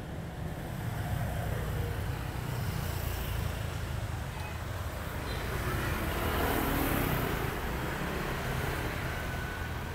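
Road traffic noise: a steady low rumble, with a passing vehicle swelling loudest about six to seven seconds in.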